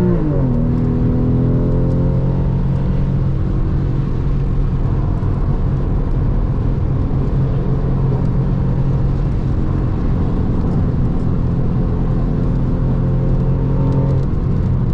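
Porsche 996.2 Carrera's 3.6-litre flat-six heard from inside the car through a valved sport exhaust: the revs fall sharply right at the start, then hold at an almost steady pitch that creeps up slowly, and fall again near the end. A steady hiss of tyres and spray on the wet track runs under the engine.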